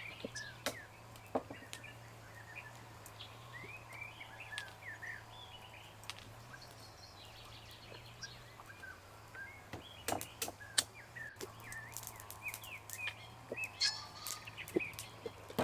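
Small birds chirping and twittering, with scattered sharp clicks and knocks that come thicker about ten seconds in and again near the end.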